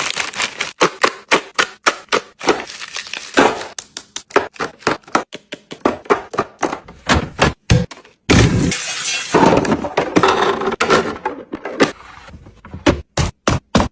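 Drinks bottles, cans and containers clinking and knocking as they are set down one after another while a fridge is restocked, with a few seconds of continuous clattering noise in the middle.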